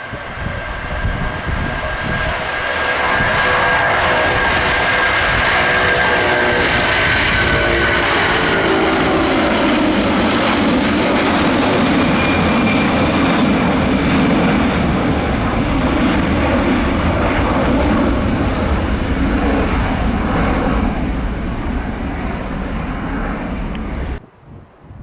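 Airbus A330-300's twin jet engines at takeoff power as the airliner passes, a high whine gliding down in pitch while the roar settles lower. The sound cuts off suddenly near the end.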